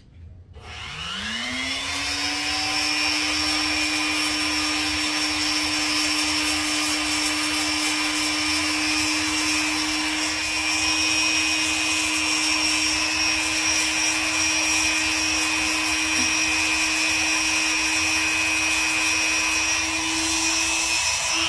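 Rotary nail grinder spinning up about a second in, then running at a steady high whine while it files a parrot's nail smooth.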